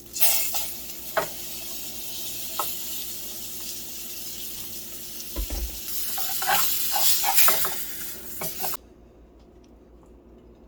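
Trout frying in a pan: a steady sizzle with the clicks and scrapes of a utensil against the pan, cutting off suddenly near the end.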